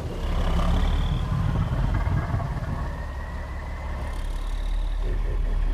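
Deep, steady rumble with faint high whining tones drifting slowly above it, an engine-like film sound-design rumble.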